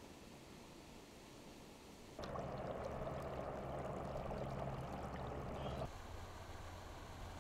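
Running water rushing steadily for a few seconds, with a low hum under it, starting and stopping abruptly. Fainter outdoor ambience comes before and after it.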